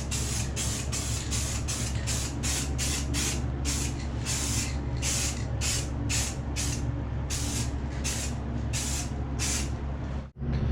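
Aerosol spray paint can sprayed in quick short bursts, about three or four hisses a second, slowing and stopping shortly before the end, over a steady low hum.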